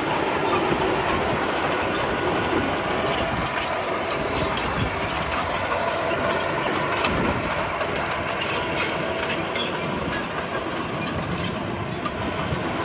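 Komatsu D31P crawler bulldozer working: its diesel engine runs steadily under a constant clatter of many short clanks from the steel tracks.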